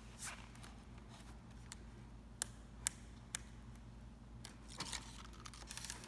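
Display parts being handled during assembly: a few sharp clicks and taps with short bursts of rustling and scraping, the busiest stretch near the end, over a steady low hum.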